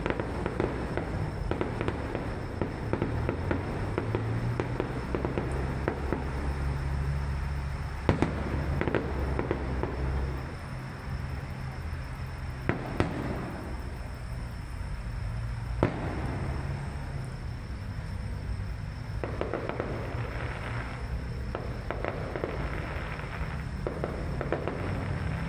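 Fireworks display: a continuous run of crackling pops over a low rumble, with a few sharper, louder bangs about 8, 13 and 16 seconds in.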